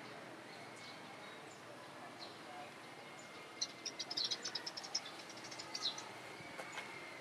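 Small birds chirping: a quick flurry of short, high chirps about halfway through, over a faint steady background.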